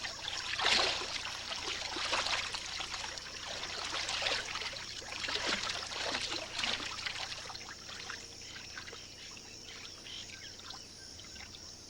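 Water splashing and trickling in irregular bursts, busiest over the first seven seconds and then dying down.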